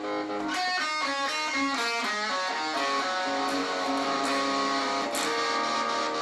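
Electric guitar played through a Behringer UT300 tremolo pedal: held notes, then about half a second in a fast run of descending picked notes, followed by longer sustained notes, with the volume pulsing evenly from the tremolo.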